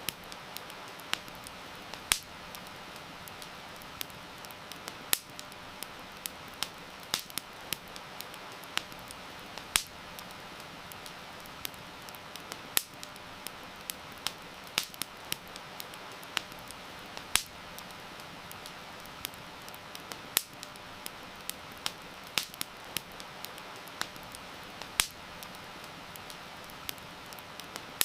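Wood campfire crackling, with sharp irregular pops several times a second, over a steady hiss of heavy rain.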